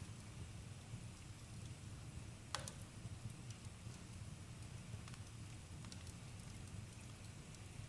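Campfire burning with a low steady rumble and sparse sharp crackles and pops, the loudest about two and a half seconds in.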